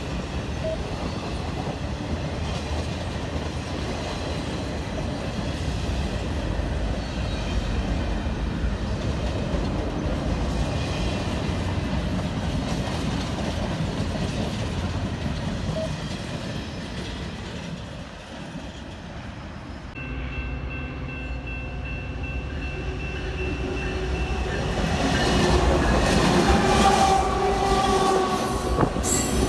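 A train rolling past on the rails with a steady rumble of wheels and cars. The sound changes abruptly about twenty seconds in. After that a train grows louder, with several held tones sounding over its rumble.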